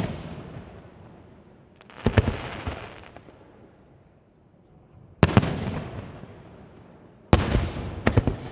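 Aerial firework shells bursting: three loud booms a couple of seconds apart, each dying away over a second or two. Quick crackling reports follow the first and last.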